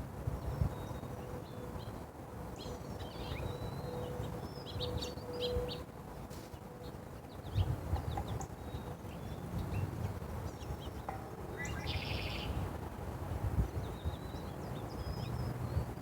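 Small birds chirping in short, scattered high calls, with a quick rapid run of notes just after twelve seconds, over a steady low rumble.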